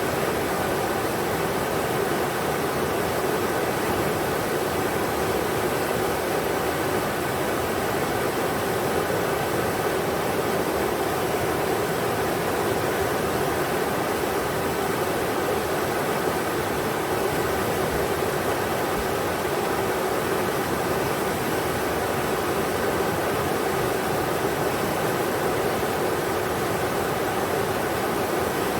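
Englishman River rushing over rocks: a steady, even wash of water noise with no breaks.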